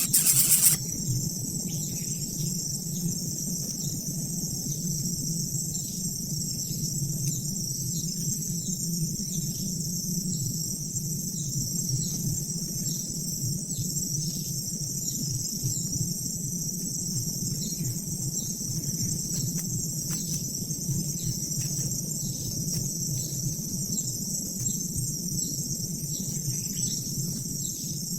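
Steady high-pitched insect chorus of crickets, over a low hum. A louder rushing noise cuts off just under a second in.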